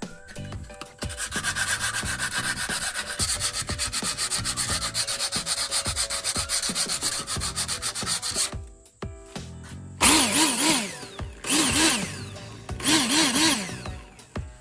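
Rapid, even scraping strokes, like hand sanding or filing on a workpiece, for about seven seconds. After a short pause come three brief bursts with a wavering pitch.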